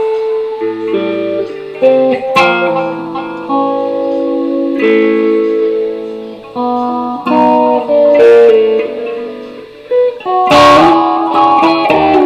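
B.C. Rich Warlock electric guitar played slowly: picked notes and chords left to ring, with a sharp strum about two and a half seconds in and another near the end.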